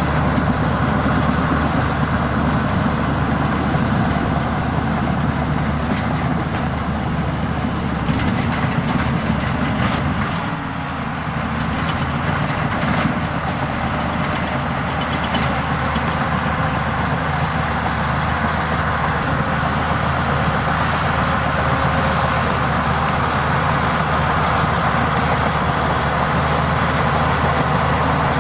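Heavy diesel earthmoving machinery running steadily, a low engine note throughout, with a short dip in level and scattered clanks and knocks about a third of the way through.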